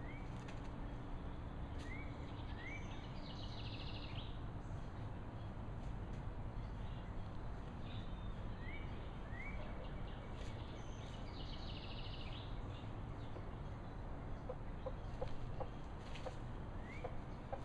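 Backyard ambience: a steady low background hum, with a wild songbird repeating a short phrase (two quick rising notes, then a buzzy trill) about every eight seconds, and a few soft clucks from silkie chickens near the end.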